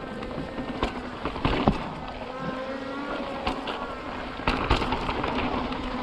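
Mountain bike riding over slickrock: a steady rush of wind and tyre noise with a faint hum that shifts in pitch, broken by sharp knocks and rattles from the bike. The loudest knocks come about a second and a half in and again near five seconds.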